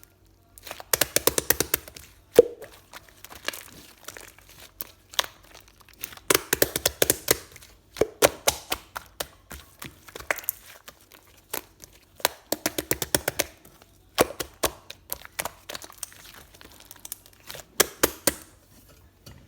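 Close crackling and crinkling: bursts of rapid sharp clicks, each cluster about a second long, coming every few seconds.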